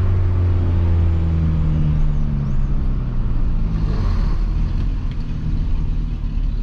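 Peugeot 206 1.4 four-cylinder engine on an exhaust with no muffler. Its note falls steadily for about three seconds as the car slows off the throttle, then settles into a lower, steady rumble.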